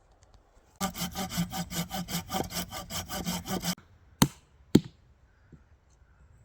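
Hand saw cutting wood in quick, even strokes for about three seconds, stopping abruptly, then two sharp knocks.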